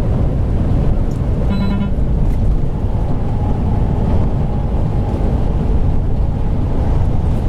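Steady low rumble of a semi-truck driving at highway speed, heard from inside the cab. A short pitched beep sounds about a second and a half in.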